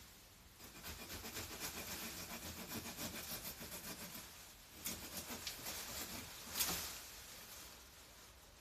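Hand pruning saw sawing through a branch in quick back-and-forth strokes, about four a second, in two runs with a short pause between, the last stroke the loudest.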